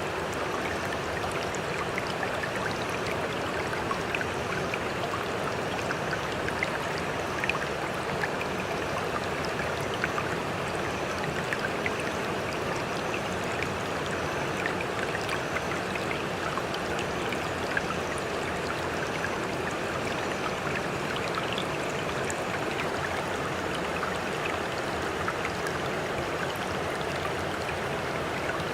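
Sea water washing steadily, with scattered small splashes and ticks and no separate breaking waves.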